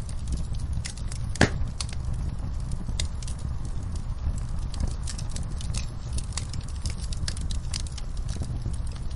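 Campfire burning: wood crackling with scattered pops over a steady low rumble, and one louder pop about a second and a half in.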